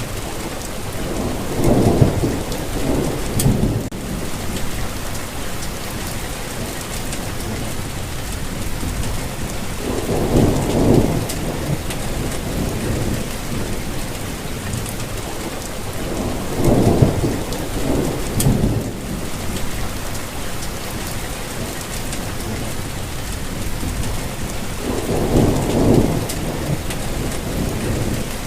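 Steady rainfall hissing evenly, with a low rumble that swells and fades four times, each lasting a couple of seconds.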